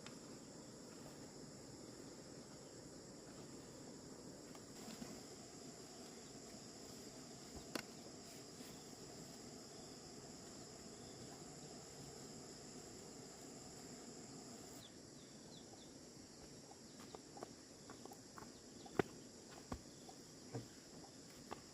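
Faint steady high-pitched chorus of insects, likely crickets, with a few scattered clicks and knocks in the last several seconds.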